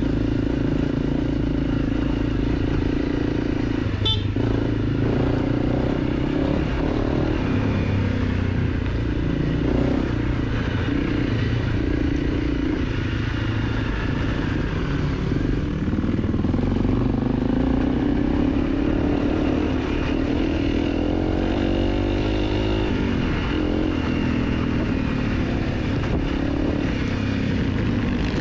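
A 250 cc dirt bike's engine running under way, its pitch rising and falling with the throttle. A single sharp knock comes about four seconds in.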